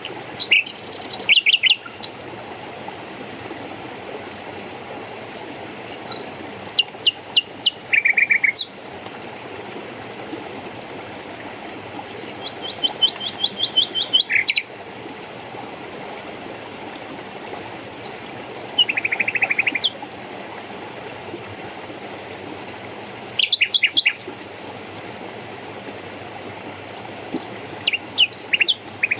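A songbird singing short phrases every few seconds, each a quick run of high chirps or a rapid trill, over the steady rush of a stream.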